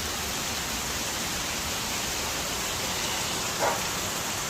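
Heavy rain pouring down, a steady hiss. One short, louder sound cuts through the rain about three and a half seconds in.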